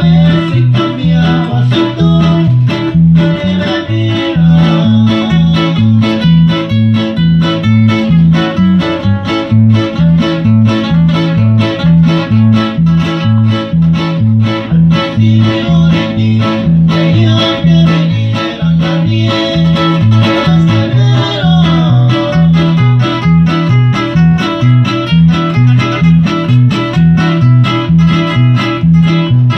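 Instrumental band music with plucked guitars over a bass line that alternates between two low notes in a steady, even beat.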